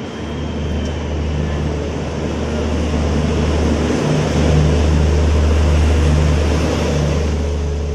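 Coaches of a passenger train running through the station at speed: a steady rush of wheel and rail noise with a low hum under it, loudest in the second half.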